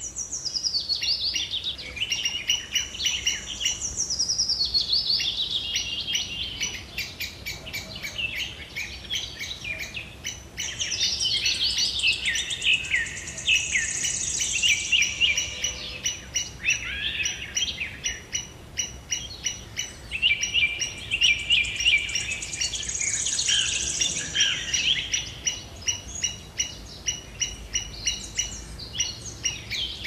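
Several birds singing and calling at once, with rapid, evenly repeated chirps and whistled phrases overlapping throughout.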